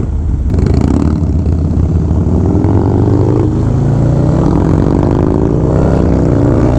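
2016 Harley-Davidson Low Rider S's V-twin, fitted with S&S 585 cams and a Fab 28 exhaust, pulling hard under acceleration while riding, its pitch rising steadily for several seconds in one gear.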